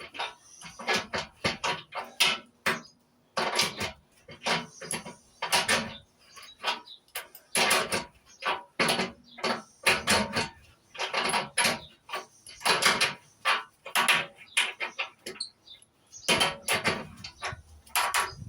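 Adjustable spanner clinking and scraping on a brass fitting as it is unscrewed: a string of irregular, sharp metallic clicks, a few each second.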